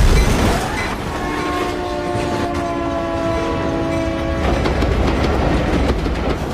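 Train passing with a low rumble, its horn sounding one held chord for about three and a half seconds from about a second in, then the wheels clacking over rail joints.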